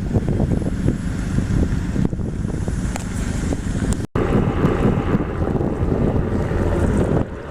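Wind buffeting the microphone in a steady, loud low rumble, cut by a brief dropout about four seconds in.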